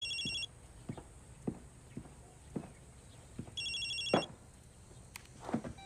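Telephone ringing twice, an electronic trilling ring about three and a half seconds apart. Soft, fairly regular thuds sound underneath.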